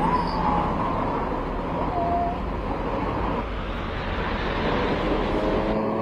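Street traffic with vehicle engines running, a steady low rumble, with a couple of brief high tones over it near the start and about two seconds in.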